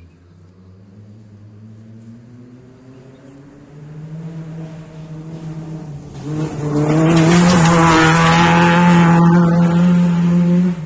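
A rally car's engine approaches at high revs, rising in pitch and growing steadily louder. It is very loud for the last four seconds or so as it comes close, then cuts off sharply.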